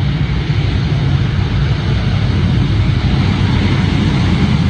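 Jet engines of an Airbus A350-900 (Rolls-Royce Trent XWB) heard as a loud, steady rumble and rush, heaviest in the low end.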